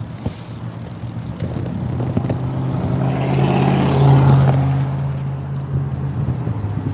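Motor vehicle engine running with road noise, growing louder to a peak about four seconds in, then easing off.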